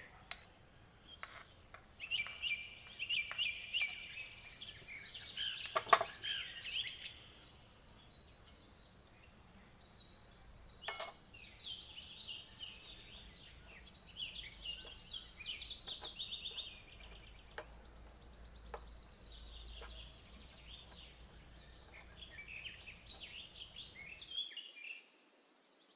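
Birds chirping and singing in the background in repeated short trills, with a few sharp clicks from small steel utensils, the loudest about six seconds in.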